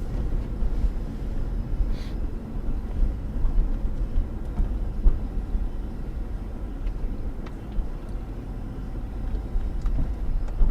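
Steady low road and engine rumble of a car driving, as picked up by a dashcam, with a few faint ticks.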